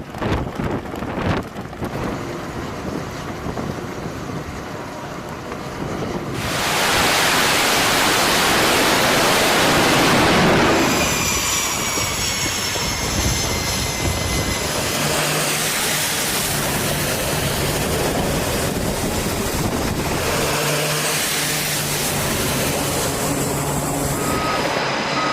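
Carrier flight-deck machinery noise: a loud jet-engine rush builds up about six seconds in, then high whining tones glide slightly downward, followed by a steady lower engine hum with tones coming and going.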